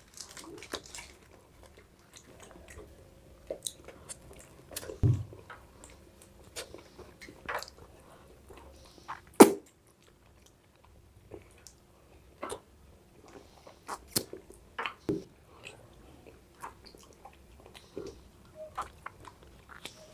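Ice cream and kulfi being eaten close to the microphone: scattered, irregular short mouth clicks and smacks, the loudest about nine and a half seconds in.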